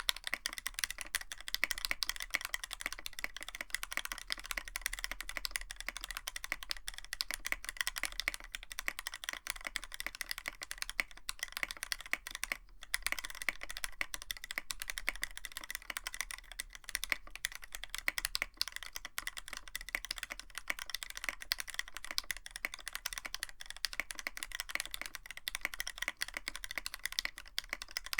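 Continuous typing on a Tofu65 65% keyboard with a brass plate, MW PBT keycaps and filmed Vermilion Bird switches: a dense, steady run of keystrokes, with one brief pause about halfway through.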